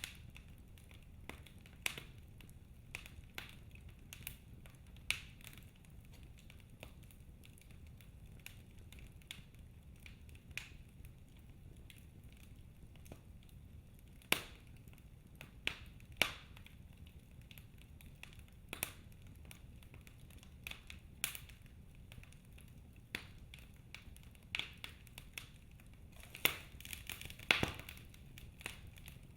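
Wood fire in a fireplace crackling: irregular sharp pops over a low steady rumble, with a cluster of louder pops near the end.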